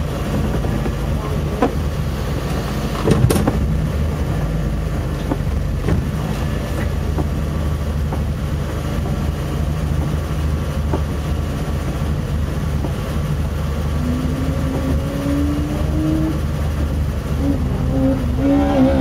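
Audi 50's four-cylinder engine idling steadily, heard from inside the cabin, with a sharp knock about three seconds in. In the last few seconds a higher tone rises over the idle.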